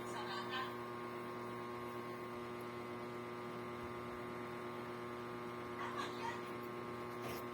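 Steady electrical hum made of several even, unchanging tones, with a couple of faint brief sounds about six seconds in.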